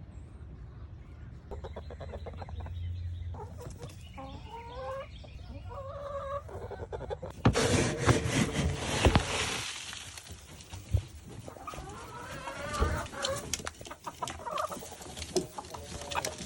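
Chickens clucking at intervals, with a louder stretch of noise and many clicks lasting a couple of seconds about halfway through.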